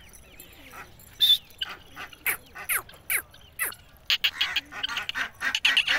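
A series of short bird chirps and calls: quick falling notes at about two a second through the middle, then a fast run of sharp chirps near the end.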